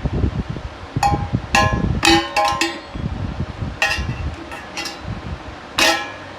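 A small child banging a spoon against a dish, about nine irregular clinks that each ring briefly, with dull knocks underneath.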